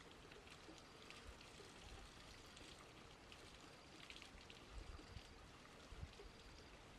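Near silence: a faint steady hiss of outdoor background with scattered soft ticks.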